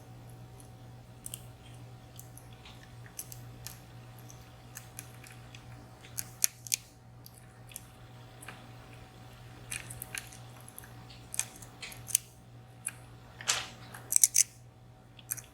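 Dimple-lock pick and tension wrench working inside a VSR high-security dimple lock under very light tension: irregular small metallic clicks and short scrapes as pins are lifted and set, coming more often near the end. A faint steady low hum lies underneath.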